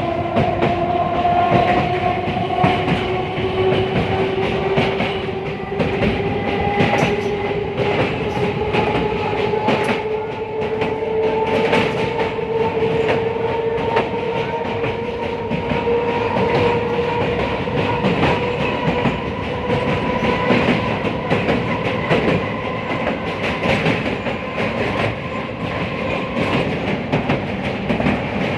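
Passenger train running on the rails with a whine that rises slowly in pitch as the train gathers speed, over steady rumble and the clicking of wheels over rail joints.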